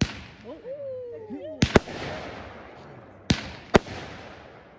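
Fireworks shells bursting: one loud bang at the start, a close pair of sharp reports about a second and a half later, and two more past three seconds. Each bang trails off in a rolling echo.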